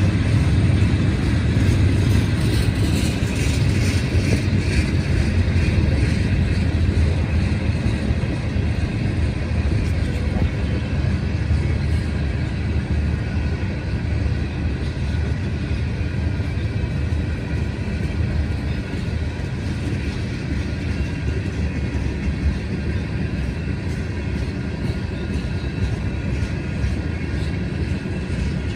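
Loaded ballast hopper cars of a Union Pacific freight train rolling past: a steady rumble of steel wheels on rail, easing slightly in the second half.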